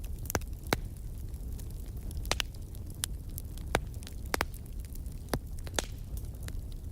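Wood fire burning in a fireplace: a steady low rumble of the flames with sharp crackles and pops at irregular intervals, about a dozen of them.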